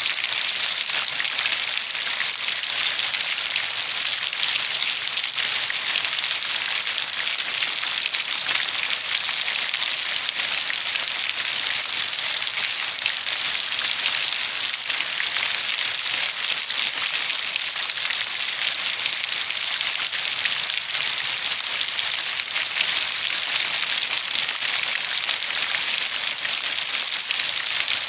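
Steady rainfall, a dense even hiss of many fine drops pattering on a surface.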